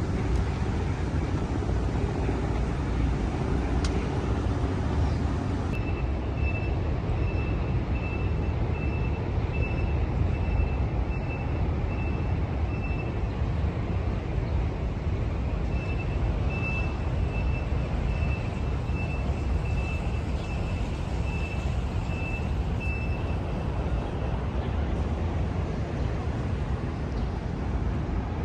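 Steady low rumble of city traffic. A vehicle's reversing alarm beeps about twice a second from about six seconds in, pauses for a few seconds, then beeps again until near the end.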